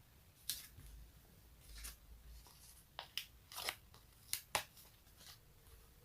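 A series of short sticky peeling crackles, about eight in the space of five seconds, as something tacky is pulled apart close to the microphone.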